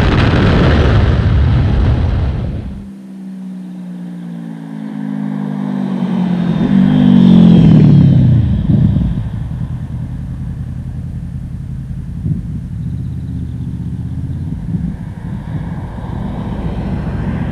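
Honda VFR800's V4 VTEC engine through an SC-Project exhaust in flyby passes: a loud pass fading in the first couple of seconds, then the bike approaching, loudest about eight seconds in, its note dropping in pitch as it goes by, then a steadier, lower engine sound.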